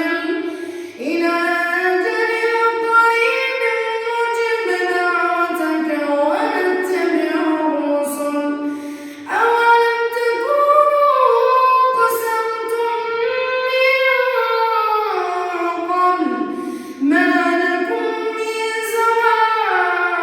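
Solo voice chanting Quran recitation in maqam Saba: long, ornamented melodic phrases that slide between held notes. There are short breaths about a second in, around the middle and near the end.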